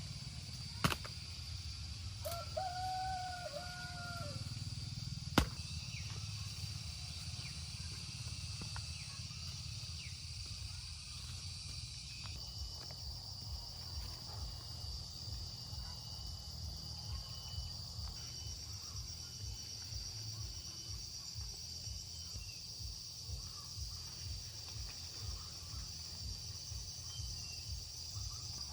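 Rural outdoor ambience: a steady high-pitched drone of insects throughout, with a rooster crowing once a few seconds in. Two sharp clicks sound near the start, over a constant low rumble.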